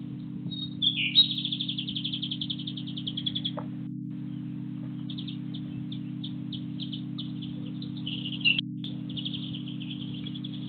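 Small songbirds chirping: a fast, high trill of about two and a half seconds comes in about a second in, followed by a run of short, separate chirps. A steady low hum runs beneath.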